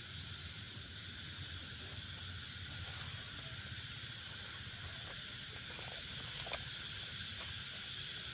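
Night insect chorus: a steady high shrill with crickets chirping in short regular pulses about once a second. A few faint clicks stand out in the second half.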